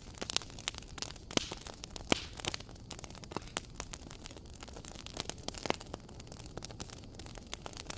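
Wood fire in a fireplace crackling, with irregular snaps and pops over a low steady rumble. The sharpest pops come about one and a half, two and five and a half seconds in.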